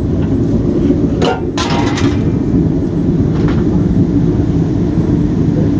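A hot, torch-heated tomahawk blade quenched in oil: a short burst of crackling and sizzling about a second in, with a fainter crackle a little later, over a steady low rumble.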